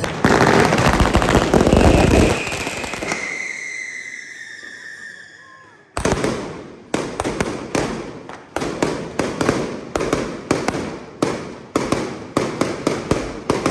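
Fireworks going off: a dense, loud barrage for about two seconds, then a falling whistle that fades out. From about six seconds in comes a rapid string of sharp bangs, two or three a second.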